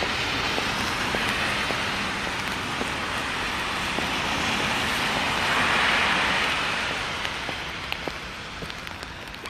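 Steady rain hiss, with a vehicle's tyres hissing past on the wet road. The hiss swells to its loudest about six seconds in, then fades away.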